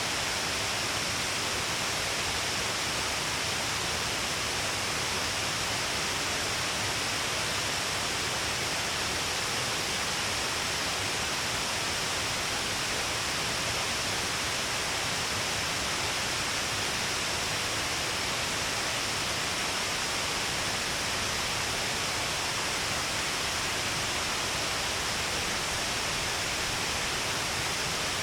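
Shiraito Falls, many streams of water pouring down a long cliff face, making a steady, unbroken rush.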